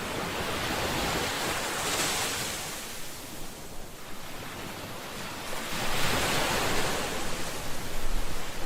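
Ocean waves breaking and washing on the shore, the surf swelling and fading in slow surges about every three to four seconds, with some wind rumble on the microphone.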